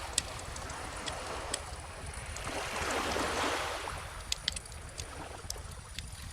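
A gentle ocean wave washing up the shore, swelling to its peak about halfway through and then fading, with a few sharp crackles from a wood bonfire.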